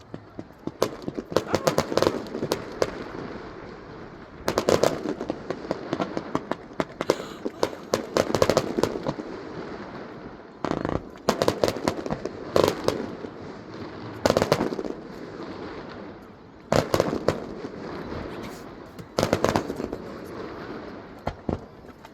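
Fireworks display: aerial shells bursting in clusters of sharp bangs and crackles that recur every two to three seconds.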